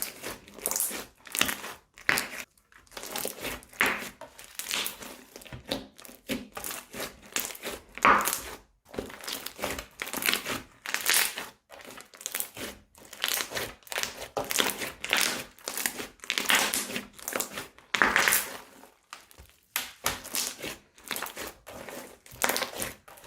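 Slime being squeezed and pressed by hand, giving a run of crackly, sticky squishes about once or twice a second at an uneven pace.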